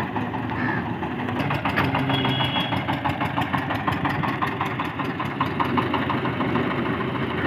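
Diesel engine idling, with a fast, even clatter.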